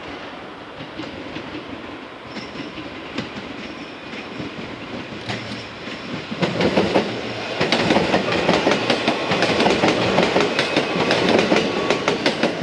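A JR West 227 series electric multiple-unit train approaching and passing close by. It grows much louder about six seconds in, then gives a fast clickety-clack of wheels over rail joints as the cars go past.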